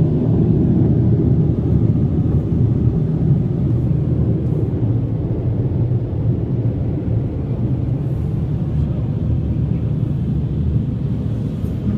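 Car wash air dryer blowers blowing on the car, heard from inside the cabin as a steady, deep rushing noise that eases slightly in the last few seconds.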